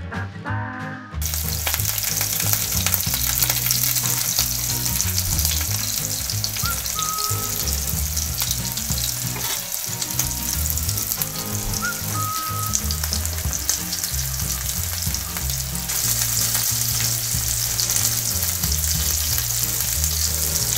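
Marinated mussels sizzling as they shallow-fry in hot oil in a non-stick pan, a dense steady crackling hiss that starts about a second in.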